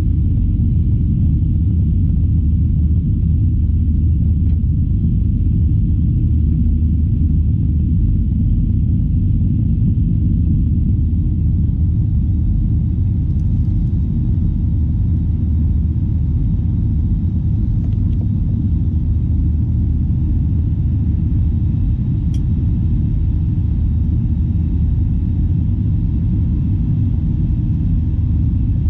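Steady low rumble of Airbus A321 cabin noise, the jet engines and airframe heard from inside the passenger cabin.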